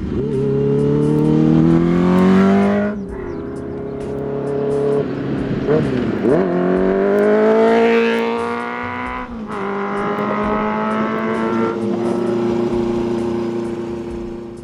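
Motorcycle engine accelerating up through the gears. Its note climbs in each gear and drops sharply at each shift, about four shifts in all.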